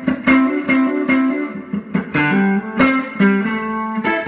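1971 Epiphone ET270 electric guitar played on its neck Kent Armstrong mini humbucker with the bass-cut switch on, through a 5F4 tube amp with a little reverb and compression. It plays a picked riff of quick single notes and double-stops, a few notes a second.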